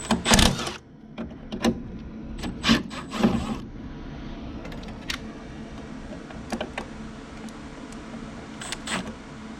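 Metallic clicks, clinks and a brief clatter of hand tools and sheet-metal parts being handled while the ground wire is disconnected from a furnace draft inducer motor, over a steady low hum. The loudest clatter comes about half a second in, with scattered single clicks after it.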